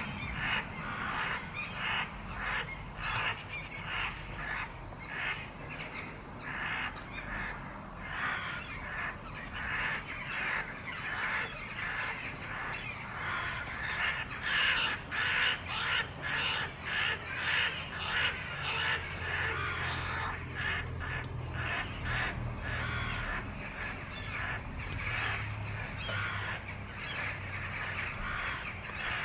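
Harsh bird calls repeated over and over, about two a second, with a low steady hum underneath that is stronger in the second half.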